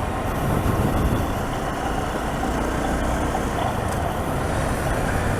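Honda CRF single-cylinder dual-sport motorcycle engine running steadily while being ridden, mixed with wind and road rumble.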